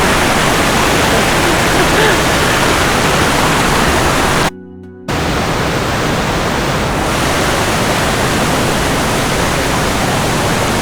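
Loud, steady rush of a waterfall's falling water close by, cutting out for about half a second near the middle.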